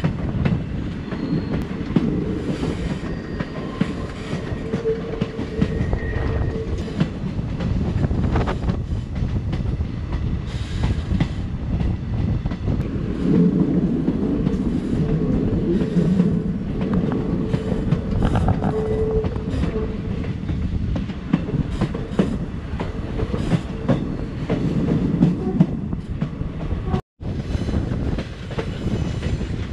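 Passenger train coaches running along the track, heard from an open doorway: a steady low rumble of wheels on rails with irregular clicks and clatter over rail joints. The sound cuts out for a moment near the end.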